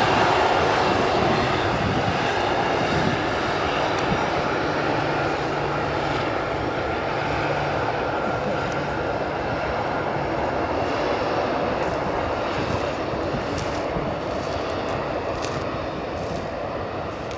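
Jet engines of an Airbus A321 running with a loud, steady rush that slowly fades away.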